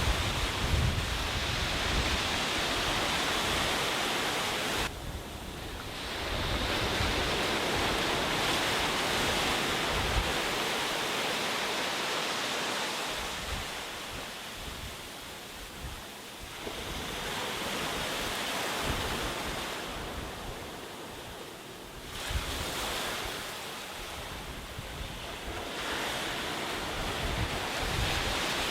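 Sea waves breaking and washing up the beach in a steady surf that swells and ebbs, with a few brief dips around 5 and 22 seconds in. Wind rumbles on the microphone at times.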